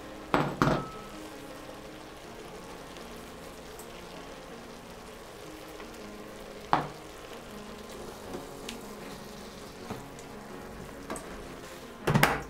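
Pieces of pork with onion and carrot frying in oil in a multicooker bowl, a steady sizzle. Sharp knocks cut through it: two in quick succession about half a second in, one near seven seconds, and a louder clatter near the end as the multicooker lid is shut.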